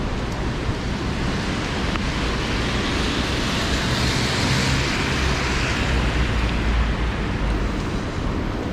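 Heavy rain pouring in a city street, a steady loud hiss, with traffic on the wet road swelling louder and deeper around the middle and easing off again.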